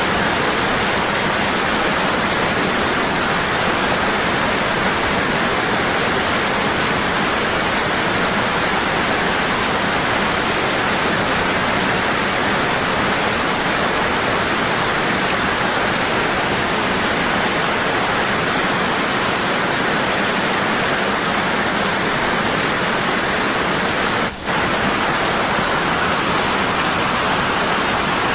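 Waterfall falling strong and constant: an unbroken rush of water, with a momentary dip in level near the end.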